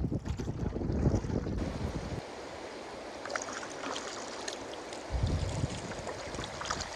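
Gusty wind buffeting the microphone, heavy for the first two seconds and again briefly about five seconds in, over light splashing of water around a canoe.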